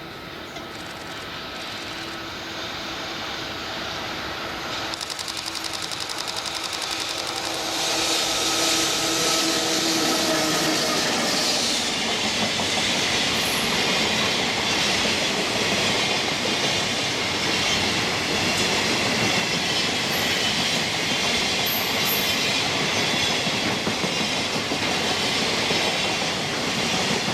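A JR Freight coal train hauled by an EF65 electric locomotive approaches with a steady hum from the locomotive that grows louder. From about 8 seconds in the train runs past at full loudness, with the long line of freight wagons going by and a continuous clickety-clack of wheels over the rail joints.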